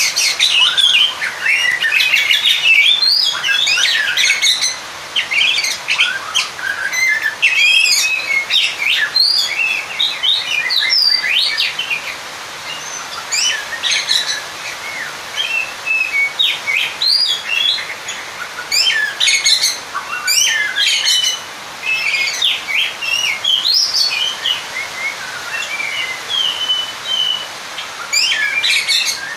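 Oriental magpie-robin (kacer) singing a fast, varied run of whistles and chirps, dense for the first dozen seconds, then in shorter phrases with gaps: the agitated song of a bird calling out a rival.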